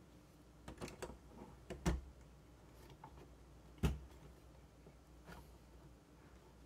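Plastic LEGO pieces clicking and knocking as they are handled and fitted onto an axle: a few light clicks in the first second, then two sharper knocks at about two and four seconds in.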